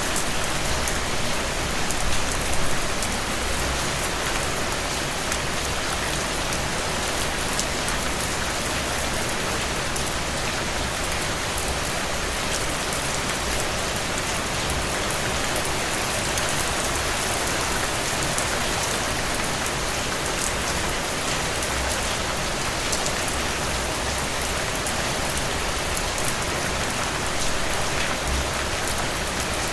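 Steady heavy rain falling on a surface, a dense even hiss with fine scattered drop ticks and a low rumble beneath.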